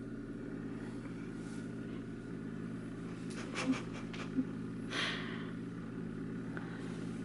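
Steady low motor-like hum, with a few brief soft noises about three and a half and five seconds in.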